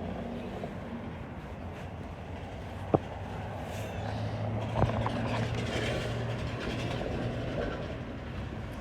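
A vehicle passing by: a steady low hum that swells in the middle and fades near the end, with a sharp click about three seconds in.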